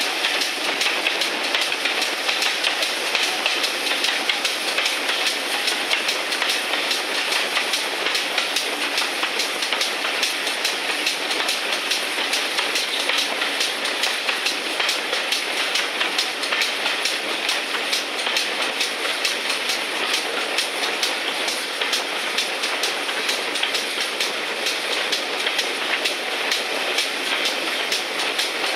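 Coach wheels running over the track of a moving train, a steady rumble and rush with a continual fine clicking of the wheels on the rails, heard from an open carriage window.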